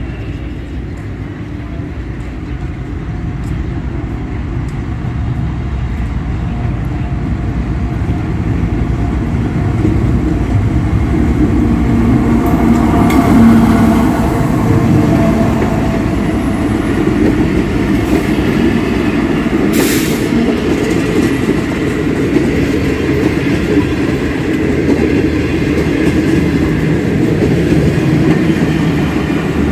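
Passenger train hauled by a diesel-electric locomotive rolling past on the track: a heavy rumble of engine and wheels that grows louder over the first dozen or so seconds and then holds steady. A brief sharp noise about two-thirds of the way through.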